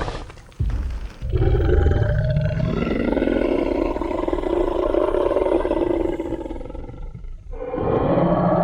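Tyrannosaurus rex roar sound effect: a short low thud about half a second in, then one long, deep roar lasting about six seconds, and a second roar starting near the end.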